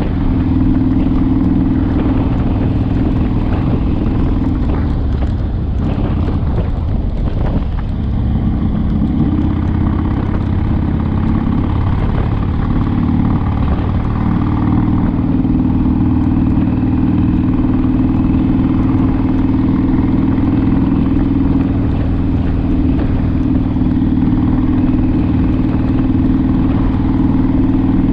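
A Harley-Davidson Sportster's air-cooled V-twin engine running steadily while riding, with a brief dip and change in its note about seven seconds in.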